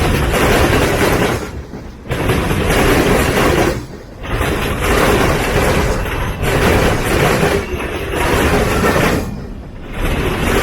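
Freight train passing close by: a loud, steady rolling rumble and rattle of the cars that drops away briefly a few times.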